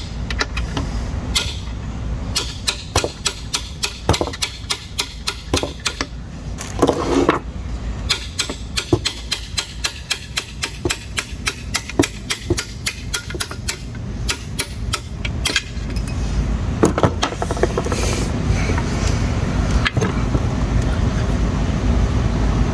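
Light hammer taps in a steady run, about two to three a second, driving a pin into the case of a 3-speed manual transmission to free the reverse gear. The tapping stops about 16 seconds in, leaving a steady low hum.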